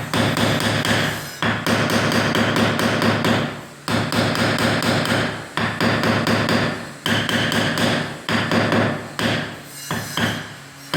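Bricks being tapped down into a thick bed of mortar with a hand tool, in repeated runs of quick knocks lasting a second or two each. The tapping packs the mortar so it squeezes out of every joint and leaves no voids.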